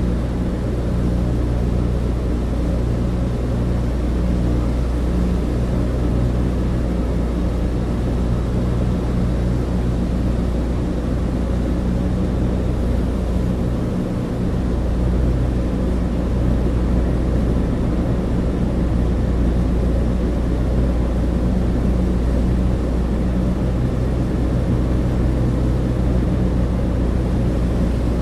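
Cabin interior of a Douglas DC-3: the steady low drone of its twin radial piston engines and propellers, with a slight dip in level about halfway through.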